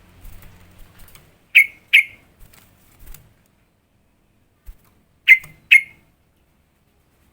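Yellow-vented bulbul (trucukan) calling in two pairs of short, loud, sharp notes, one pair about a second and a half in and another about five seconds in.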